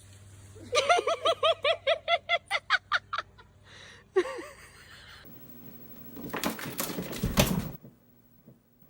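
A person laughing hard in a quick run of short, high-pitched "ha" bursts, about five a second, then one more. A few seconds later comes a loud burst of noise lasting about two seconds.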